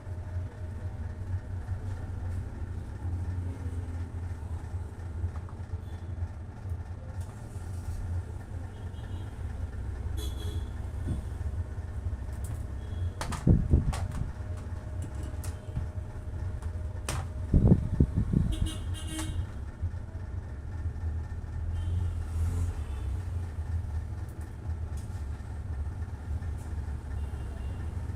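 Steady low rumble with two sharp knocks partway through and a few brief faint high beeps.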